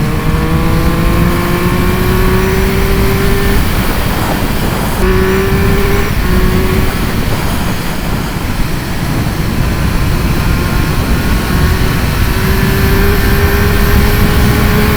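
Triumph Speed Triple 1200 RS's three-cylinder engine pulling under acceleration, its note rising in pitch, breaking off about four seconds in and climbing again near the end, over heavy wind rush.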